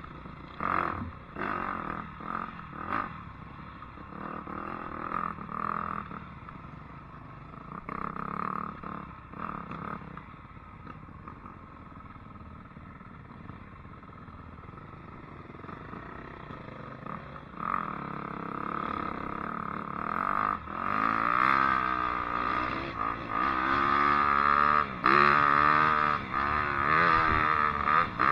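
Dirt bike engine revving up and down under riding, its pitch rising and falling repeatedly and growing louder in the last third.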